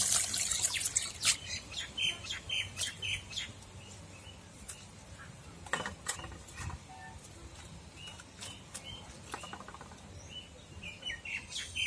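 Small birds chirping in short high calls, in bunches near the start, midway and near the end. Under them are scattered sharp crackles and pops from chana dal frying in hot oil in a pan over a wood fire.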